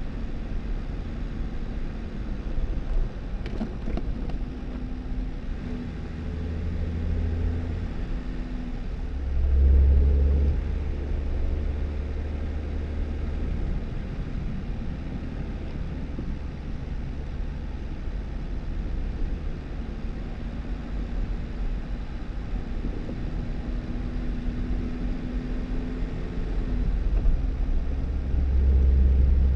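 2018 Jeep Wrangler driving on a snowy dirt road: a steady low rumble of engine and tyres. The engine note swells twice, about ten seconds in and again near the end.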